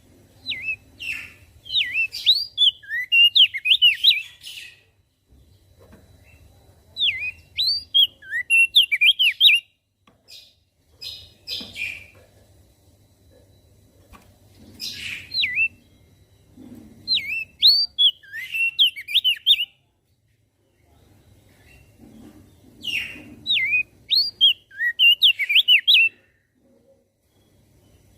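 Opior jambul (crested dark-eye) singing in repeated bouts of quick, sliding, high chirps, each bout a few seconds long, with short pauses between.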